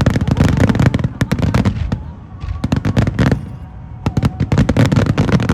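Fireworks display: rapid volleys of sharp bursts and crackles come in clusters, with short lulls between them.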